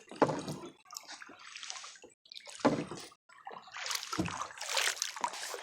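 Kayak paddle blades dipping and pulling through the water, splashing and sloshing with each stroke, a few strokes in a row.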